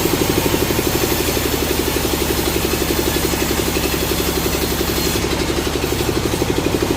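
An engine running steadily at a constant speed, with a fast, even pulsing beat.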